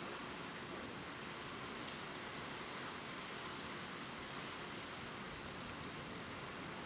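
Steady gentle rain falling on leaves: an even hiss with an occasional single drop ticking, one more distinct about six seconds in.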